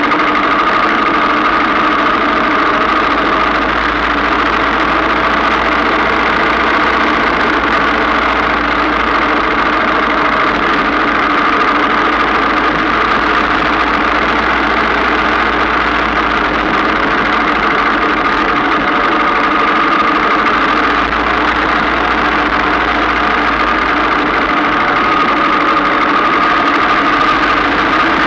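Single-cylinder engine of a 1947 Ariel VH500 Red Hunter motorcycle running steadily while the bike is ridden along.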